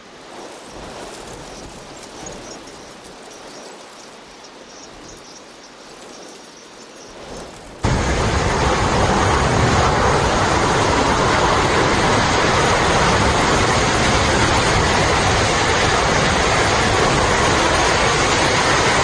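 Storm rain: a steady hiss of falling rain, then an abrupt cut about eight seconds in to a much louder, dense downpour.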